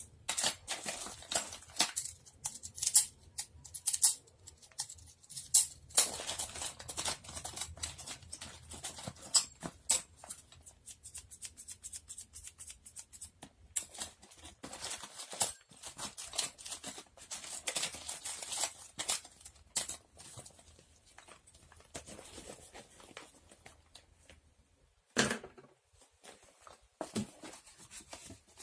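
Close-up clicks, taps and crackling rustles of small objects being handled, in quick irregular runs that thin out in the last third, with a couple of louder knocks near the end.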